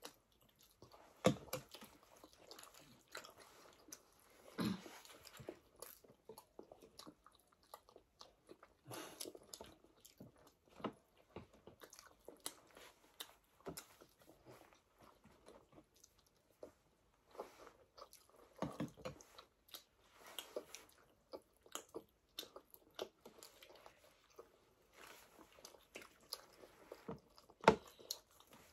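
Several people chewing and biting chapati with buffalo-meat curry: irregular soft mouth sounds and small clicks, with a few louder knocks, the sharpest near the end.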